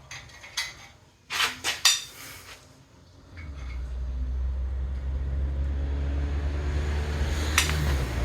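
A few light metal clinks of tools, then about three seconds in a steady low mechanical rumble starts up and keeps running, with one more sharp click near the end.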